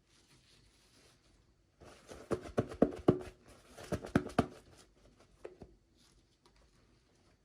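Toy packaging being handled and opened by hand: a run of crinkling and sharp clicks about two seconds in, lasting a couple of seconds, then a few light taps.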